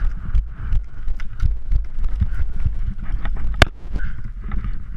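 Thumping footsteps and rustling gear close to the microphone, with one sharp crack about three and a half seconds in.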